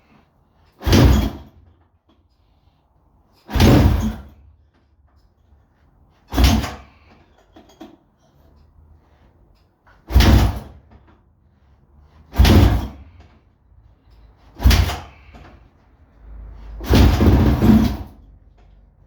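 Kawasaki KX450F single-cylinder four-stroke dirt bike being kickstarted over and over: seven short bursts a couple of seconds apart, each kick turning the engine over without it catching, and the last kick runs longer. The engine won't fire while it is being tried on a replacement CDI box.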